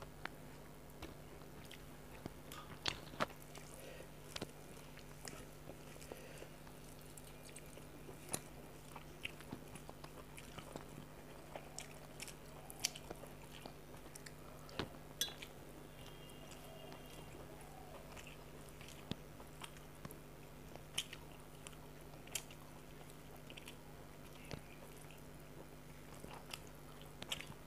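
A person chewing and biting mouthfuls of rice and fried fish eaten by hand, with many short sharp mouth clicks and crunches scattered through, over a faint steady hum.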